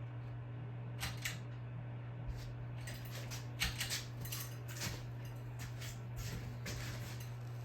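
Hampton Bay Landmark ceiling fan motor giving a steady low electrical hum, the buzz these fans are known for, with scattered light clicks and ticks over it.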